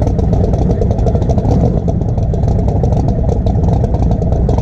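Race car's engine running loudly at low speed, a steady rapid pulsing exhaust with a deep rumble, heard close up from a camera mounted on the car.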